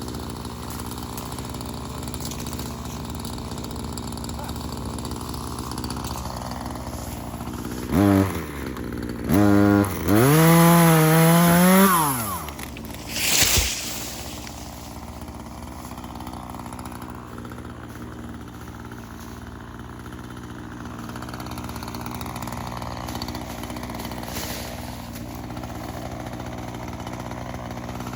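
Echo CS-3510 two-stroke chainsaw idling, blipped twice about eight seconds in, then revved for about two seconds with its pitch wavering before it drops back to idle. A short sharp noise comes just after the rev.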